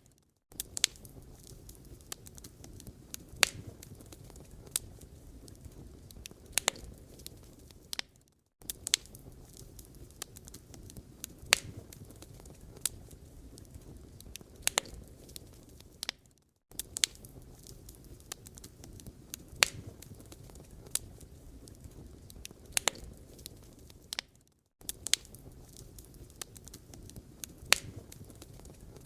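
Wood fire crackling in a fireplace: irregular sharp pops and snaps over a low, steady rumble of burning logs, broken by short gaps of silence about every eight seconds.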